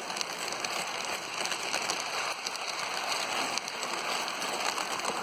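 Lionel electric toy train running on its track: a steady rattling hiss with faint scattered clicks.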